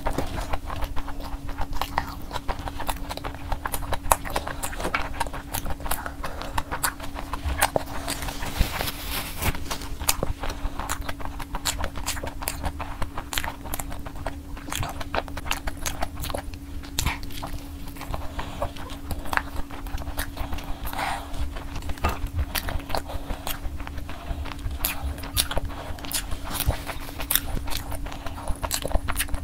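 Close-up chewing and biting of sauce-coated crispy fried chicken, with a dense run of irregular crunchy crackles, over a steady low hum.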